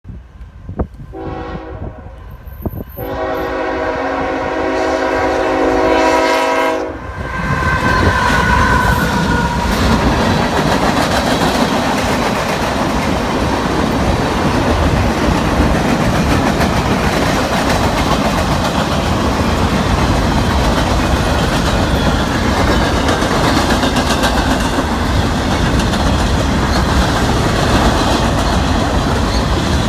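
Diesel locomotive horn sounding for a road crossing: a short blast about a second in, then a long blast of about four seconds. The lead GE ES44AC then passes close by, and the mixed freight train rolls past with a steady rumble of wheels on rail.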